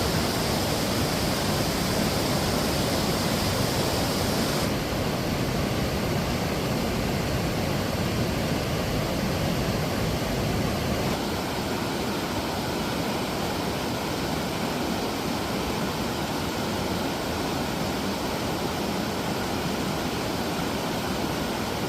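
Steady rush of a mountain stream and waterfalls tumbling over rocks, a constant roar of water. The tone of the rush changes slightly about five seconds in and again about eleven seconds in.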